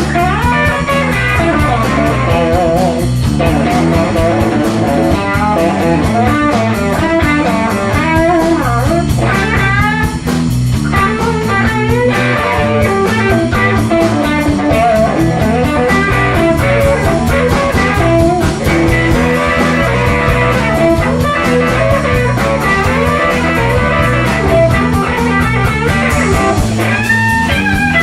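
Electric blues band playing an instrumental passage: a lead line of bent, wavering notes over a walking bass line and drums.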